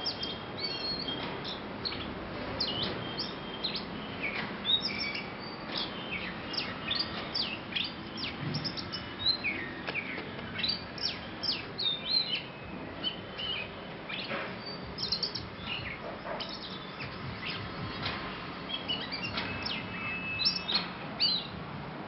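Oriental magpie-robin singing: a long, varied run of quick high whistles and sharp downward-sweeping notes over steady background noise.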